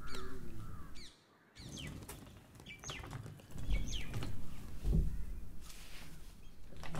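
Birds chirping, a series of short falling calls, with two dull low thumps in the middle. The sound cuts out briefly about a second in.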